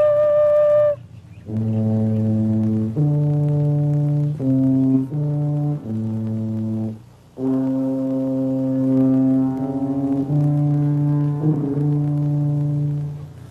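A nose flute holds a high note for about a second. Then a much deeper, horn-like giant nose flute answers with a slow run of long low notes, with a short break about seven seconds in.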